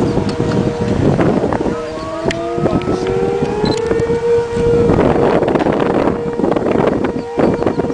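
Outdoor civil-defence tornado sirens wailing, several tones sliding slowly upward over a steady hum, with gusts of wind buffeting the microphone.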